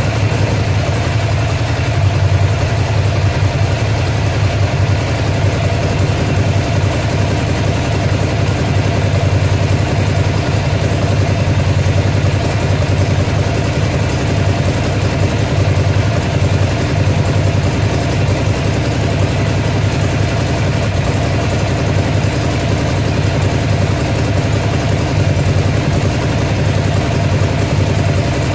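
Ducati Monster's air-cooled L-twin engine idling steadily, on a bike being diagnosed for a misfire.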